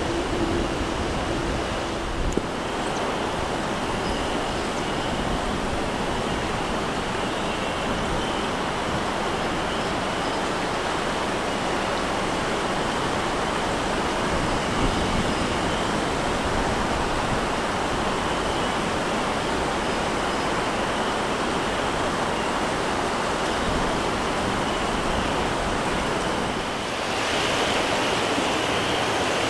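Steady rushing noise with no clear single event, shifting slightly near the end.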